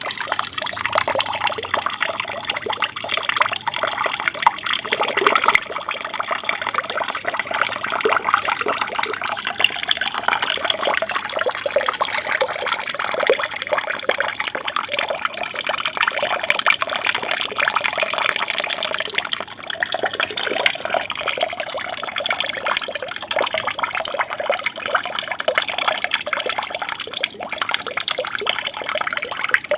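Water from a small aquarium waterfall splashing and trickling steadily into the tank.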